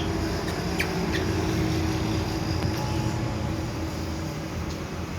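Steady low mechanical hum, with two brief high chirps from the African grey parrot about a second in.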